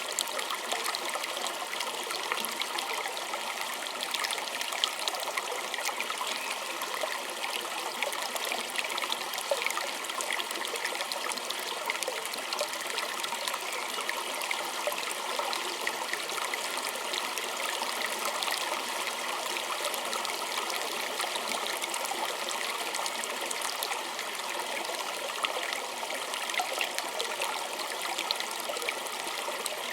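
A small stream trickling and babbling over stones, a steady splashing rush with many small drips and gurgles.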